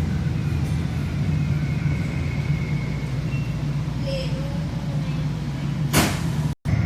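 Steady low rumble of a train running, with faint voices in the background. A sharp knock comes about six seconds in, and the sound cuts out for an instant just after.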